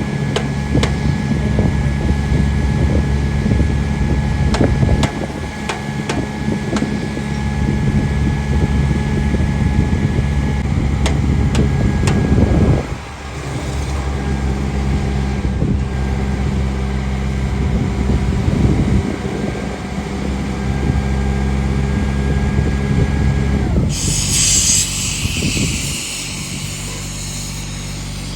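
Train running, a steady low engine drone with a few held tones and scattered clicks. The sound cuts off abruptly twice, and a high hiss joins in near the end.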